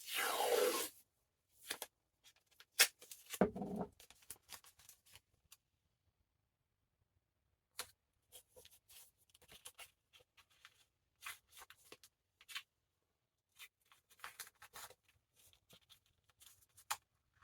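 Painter's tape being pulled and torn: a noisy rip lasting about a second at the start, a sharp click a few seconds in, then faint, intermittent crackling and rustling as the tape is handled and pressed down.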